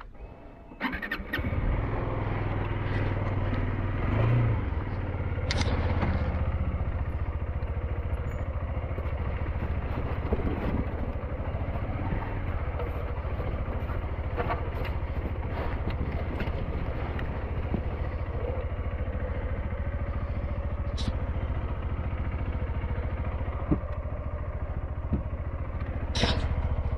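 SYM NH T 200 motorcycle engine starts about a second in and then runs steadily at low speed, with a few sharp clicks and clatters over it.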